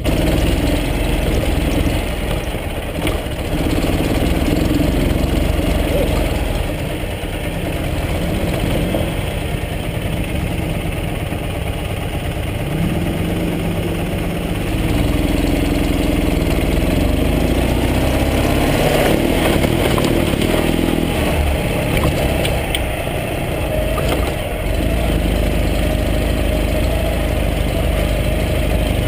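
Ural sidecar motorcycle's air-cooled flat-twin engine running under way, its pitch rising and falling several times as the throttle changes.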